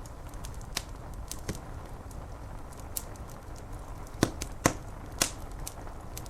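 Wood fire crackling, with sharp pops at irregular moments over a steady hiss of rain on window glass. A few louder pops come a little past the middle.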